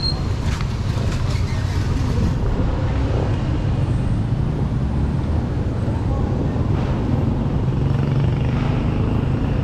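Street traffic: motor vehicle engines running close by, a steady low rumble, with a few light clicks in the first couple of seconds.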